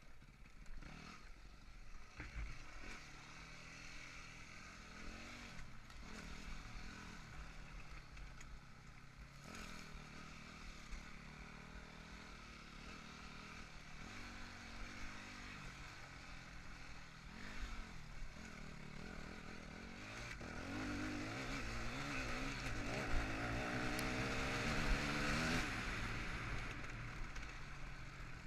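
Yamaha WR250F single-cylinder four-stroke enduro bike's engine being ridden, the revs rising and falling constantly with throttle changes. It grows louder and pulls harder from about two-thirds of the way through.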